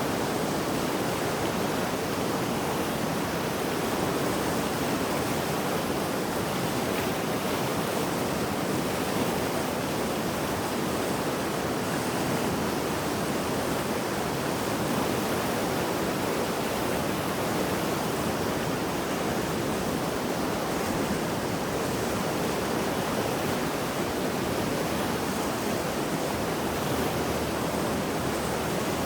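Mountain river in flood after heavy rain, its high, fast water rushing in a steady, dense roar.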